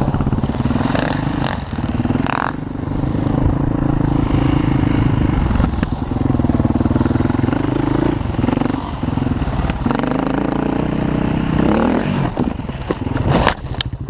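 Enduro dirt bike engine revving up and down as the throttle opens and closes over rough ground. There is a sharp clatter near the end.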